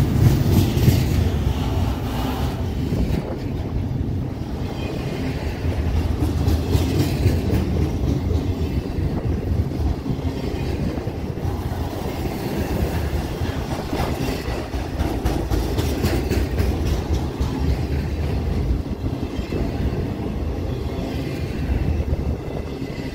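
Freight train cars rolling past: a steady rumble of steel wheels on rail, with scattered clicks as the wheels cross rail joints.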